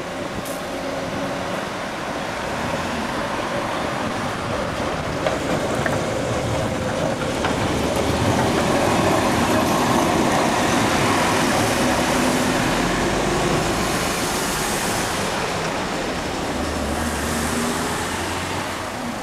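A train passing by, its rumble building to its loudest about halfway through and then slowly fading.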